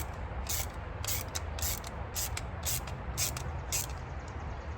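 A screw being turned back out of a mounting hole to thread it, making short rasping scrapes about two a second that stop near the end, over a steady low rumble.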